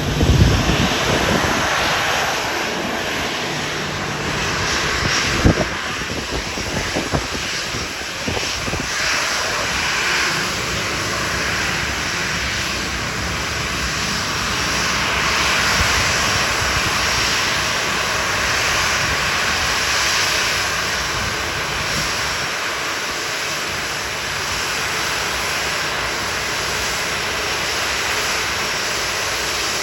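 Boeing 737-800's CFM56 jet engines running, a loud steady rushing noise with no clear pitch. A few sharp knocks come near the start and again around five to eight seconds in.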